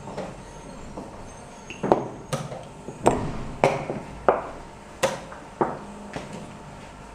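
Sharp knocks and clicks of chess pieces being set down on the board and chess clock buttons being pressed during a rapid game, about seven quick taps in the middle few seconds.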